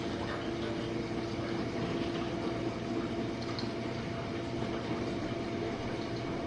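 Jenn-Air dishwasher running a quick-wash cycle: the circulation pump hums steadily while water sprays and sloshes inside the tub.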